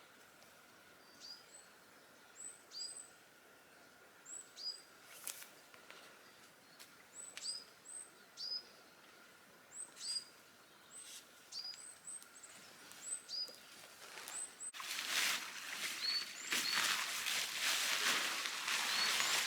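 Small birds chirping in woodland: short, high calls repeated many times. About fifteen seconds in, close-up rustling and crunching starts suddenly and is louder than the birdsong.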